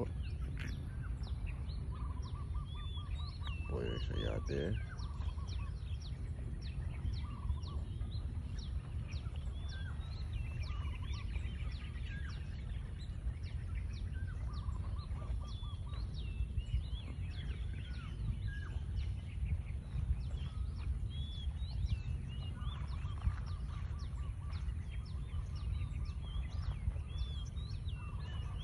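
Several birds chirping and calling throughout, with a rapid trilling call early on and again near the end, over a steady low rumble.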